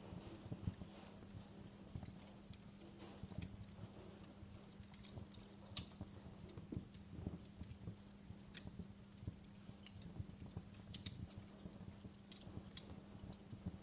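Wood fire crackling in a fireplace: faint, irregular pops and snaps over a low, steady background.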